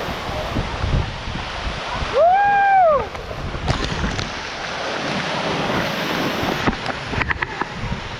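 Steady roar of a large waterfall, with wind buffeting the microphone. About two seconds in, a short pitched call rises and falls once over it. A few sharp clicks come later.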